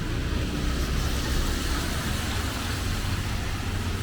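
Rainy street ambience: a steady hiss over a low rumble.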